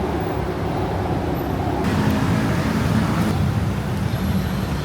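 Street traffic noise: vehicle engines running over a steady road rumble, changing abruptly about two seconds in.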